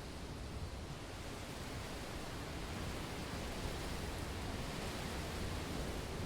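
Blizzard wind noise: a steady, even hiss with a low rumble underneath, unchanging throughout.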